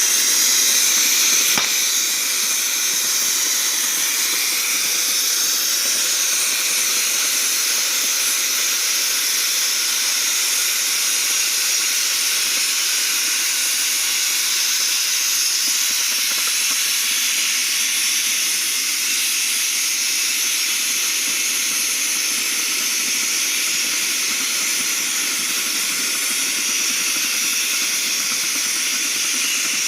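CNC cutting torch cutting through thick mild steel plate: a steady hiss.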